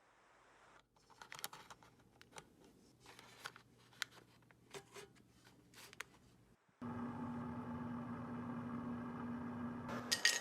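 A few light clicks and taps of kitchen handling. About seven seconds in, a steady appliance hum with one held tone takes over.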